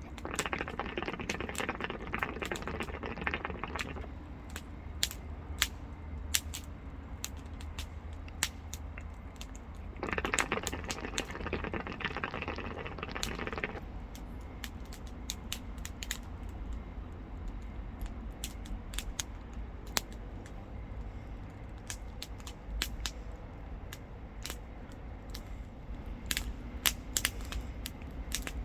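Campfire wood crackling, with frequent sharp pops and snaps. Twice, for a few seconds each, a louder rushing hiss rises over it.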